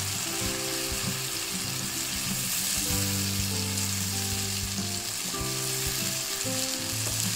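Ground chili spice paste sizzling as it sautés in hot oil in a wok, stirred and pushed around the pan with a silicone spatula. Steady low tones sit underneath, changing every second or so.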